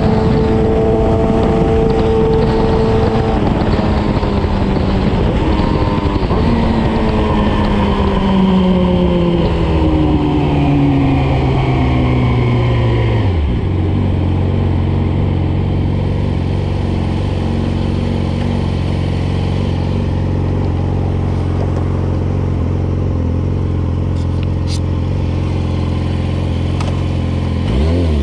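Motorcycle engine through an aftermarket slip-on exhaust, its pitch falling over the first dozen seconds as it slows. It then holds a steady low note, and near the end it dips and rises again.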